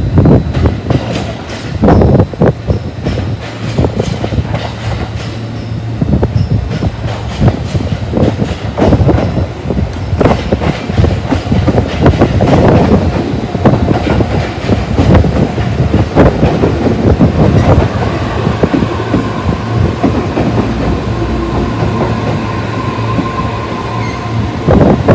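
Train running on rails: a steady rumble with irregular wheel clatter over the rail joints, and a thin wheel squeal in the second half.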